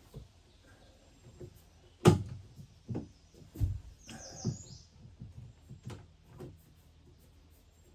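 Kitchen cabinet work: a string of knocks and clunks, the loudest a sharp knock about two seconds in, with a brief squeak around four seconds in.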